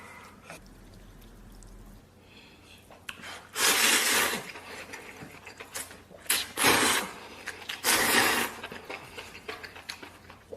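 A person slurping noodles and broth in three loud, noisy pulls, the first the longest, with quieter mouth sounds between them.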